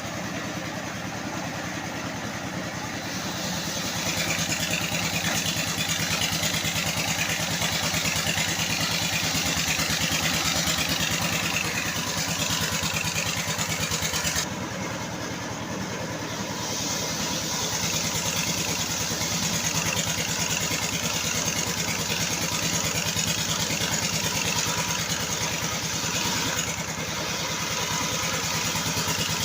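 Engine-driven circular-saw sawmill running: a steady engine note under a loud broad hiss. The hiss swells a few seconds in, eases for about two seconds halfway through, and dips again briefly near the end.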